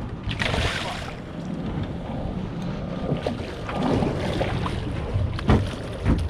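Boat motor running under wind noise on the microphone and water around the hull, with two sharp knocks on the boat near the end.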